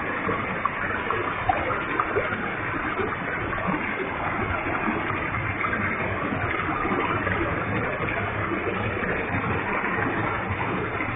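Heavy waterfall: a large volume of water falling and splashing in a steady, unbroken rush.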